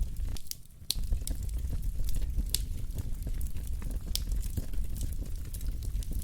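Wood fire burning in a fireplace: a low steady rumble with scattered sharp crackles and pops. The sound briefly drops quieter for about half a second, just under a second in.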